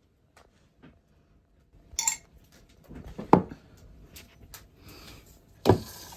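Handling sounds of hard household objects: scattered clicks and clinks, a bright clink about two seconds in, and two louder knocks, one about halfway and one near the end.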